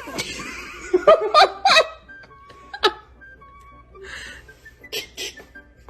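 A person laughing in a few quick bursts about a second in, over background music.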